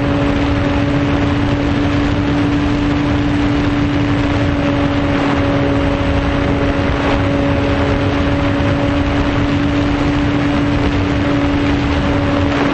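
Electric motor and propeller of a foam RC plane running at a steady pitch, with heavy wind rush, close to the microphone.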